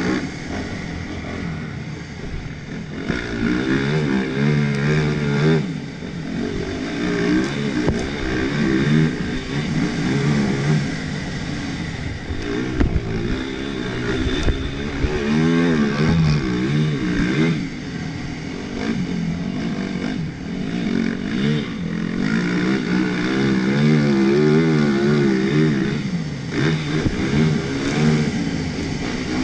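Yamaha YZ450F's 450 cc single-cylinder four-stroke engine working hard around a dirt motocross track, its pitch climbing and dropping over and over as the throttle is opened and rolled off through the jumps and corners.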